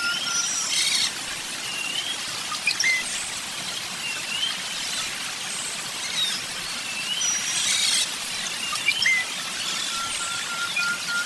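Several birds chirping and calling: short rising chirps and thin high whistles, with a quick run of repeated lower notes at the start and again near the end, over a steady hiss.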